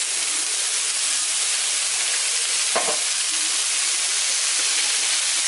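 Freshly added, salted snake gourd pieces sizzling in hot oil with onions in a wok: a steady frying hiss.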